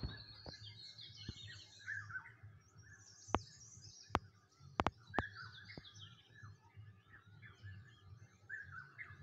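Birds chirping and calling, with many short overlapping chirps and warbles, and a few sharp clicks between about three and six seconds in.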